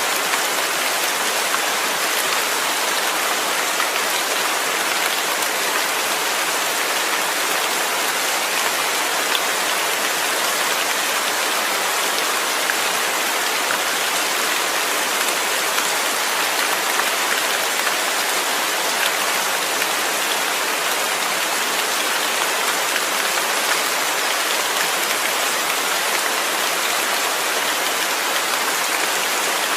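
Steady rain falling on a surface: a dense, even hiss with fine pattering of drops.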